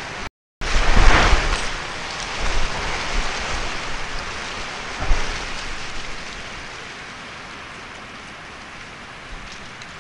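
Rain hissing steadily, with a heavy low rumble about a second in and another low thump midway. The sound cuts out completely for a moment just before the first rumble.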